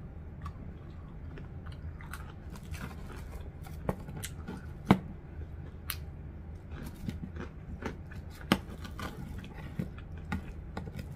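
Close-up chewing and biting of fried chicken dipped in gravy: scattered short crunches and wet mouth clicks over a steady low hum.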